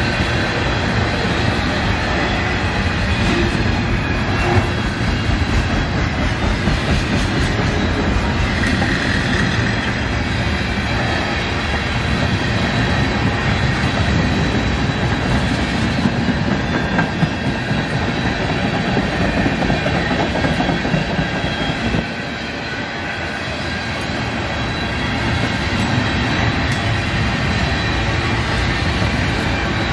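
Freight train's tank cars and hoppers rolling past close by: a steady rumble of steel wheels on rail with clickety-clack over the joints, easing off for a moment about two-thirds of the way through.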